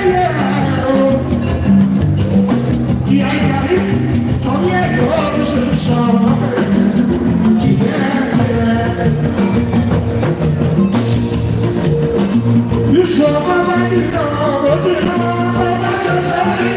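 Live band music with a steady beat and a man singing over it.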